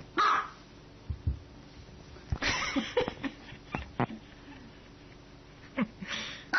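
A small dog barking in short, sharp yaps, a few barks spread apart, with some light knocks and thumps between them.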